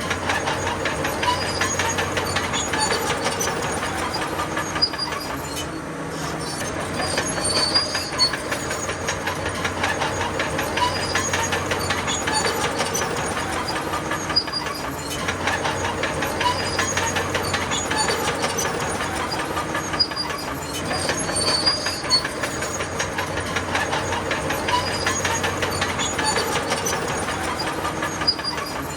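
A crawler bulldozer at work: its diesel engine runs steadily under a continuous clatter of steel track links, with recurring short high squeals from the tracks.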